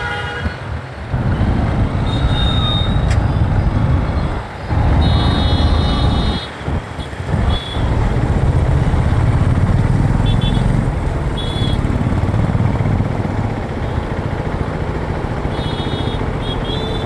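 Riding a motorcycle through city traffic: a steady rumble of engine and road noise, with short horn toots from surrounding vehicles several times.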